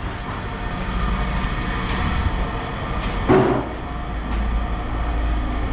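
Steady low mechanical rumble of heavy yard machinery running. About three seconds in, a piece of scrap metal lands with a single loud clang.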